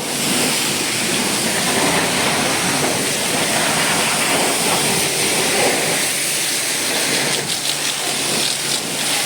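High-pressure water spray hitting a vehicle's body: a steady hiss and splatter of water, briefly unsteady late on.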